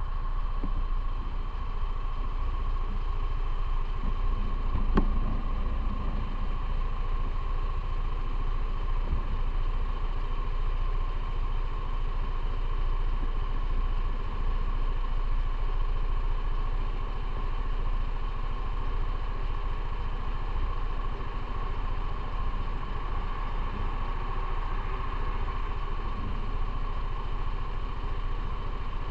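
Motorcycle running steadily on the move, with wind and road noise, and one sharp click about five seconds in.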